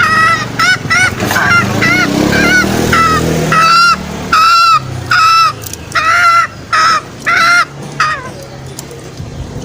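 Green junglefowl calling: a long series of short, pitched calls, about two a second, breaking off about eight seconds in.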